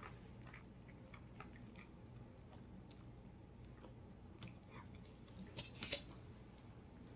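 Quiet chewing with small clicks of the mouth, and a few light clicks and scrapes of a fork against a plate, loudest about six seconds in.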